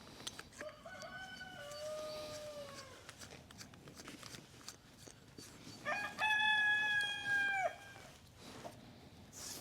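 Rooster crowing twice: a fainter crow about a second in, falling in pitch at its end, then a louder, held crow about six seconds in.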